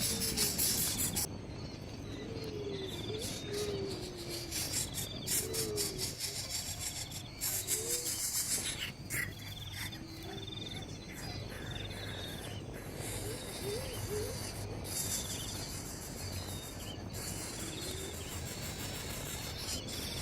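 Insects chirping in short, repeated high trills, with low bird calls that rise and fall and recur every second or two.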